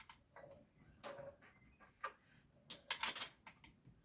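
Light clicks and knocks of hand work on a small chainsaw: its cover and nut being fitted, a cluster of taps and clicks about three seconds in.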